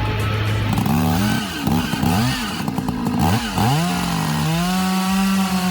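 Chainsaw engine running steadily, then revved up and down several times from about a second in. It is then held at high revs for over a second before dropping back.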